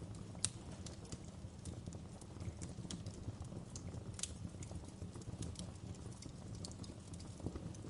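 Wood fire in a fireplace crackling: irregular sharp pops and snaps over a steady low rumble of burning, with louder pops about half a second in and about four seconds in.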